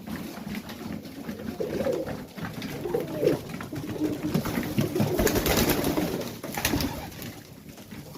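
Domestic pigeons cooing in a small loft, several low overlapping coos, with scattered clicks and scratching from birds moving about, busiest in the second half.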